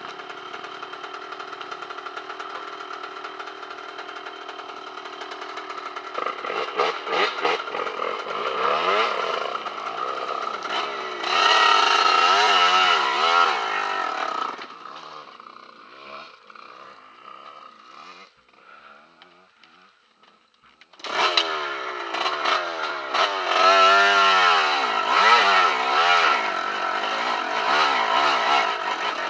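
Off-road enduro motorcycle engine running under load on a rocky climb, its revs rising and falling with the throttle. About halfway through the engine sound drops away almost to quiet for several seconds, then picks up again suddenly and revs hard.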